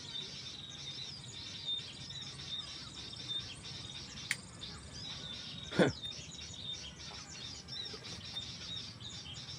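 Small birds chirping and twittering in a continuous high chorus, with a thin steady high note under it. A sharp click about four seconds in and, near six seconds, a brief loud sound that drops steeply in pitch.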